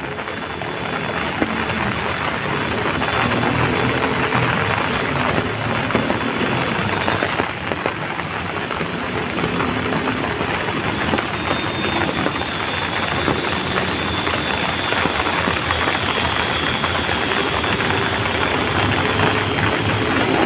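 Heavy rain falling steadily: a dense, even hiss with no pauses.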